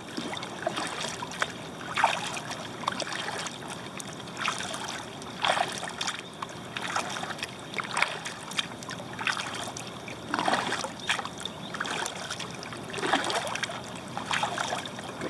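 Kayak paddle strokes dipping into flat lake water, a splash and trickle about once every second or so over a steady water hiss, as the kayak gathers speed.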